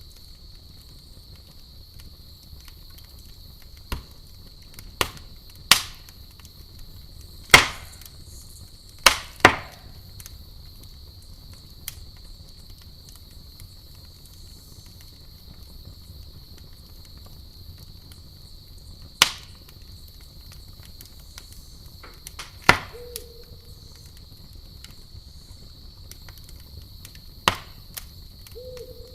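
Wood fire crackling, with about nine sharp, loud pops and snaps at irregular intervals over a low, even rumble, the loudest ones about a third of the way in. Night insects keep up a steady high trill throughout.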